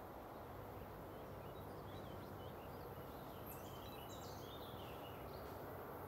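A bird chirps a quick run of short high notes from about one and a half seconds in until near the end, over a steady low outdoor background rumble.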